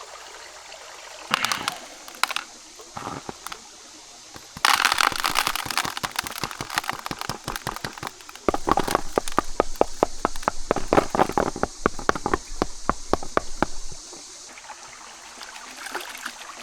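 Gravel and creek water being shaken and sloshed in a gold pan: stones rattle in quick clicks for several seconds, over the steady sound of a running creek.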